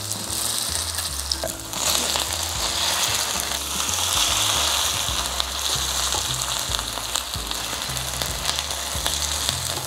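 Shredded-potato pancakes frying in hot vegetable oil in a pan, a steady sizzle that grows louder about two seconds in as the browned pancakes are flipped over.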